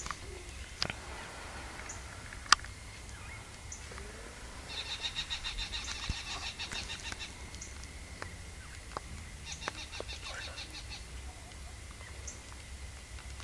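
A bird's rapid high trill of evenly spaced notes, heard twice: a longer run about five seconds in and a shorter one near ten seconds. A few sharp clicks sound close by, the loudest about two and a half seconds in.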